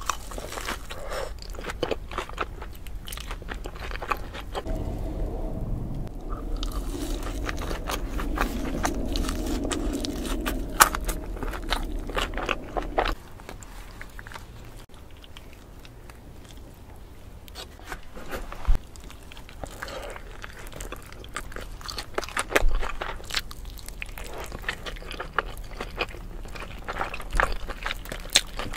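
Close-miked eating: biting into and chewing a cheeseburger, with crunches and wet mouth clicks throughout. A low steady hum lies under the chewing from about five seconds in until about thirteen seconds in.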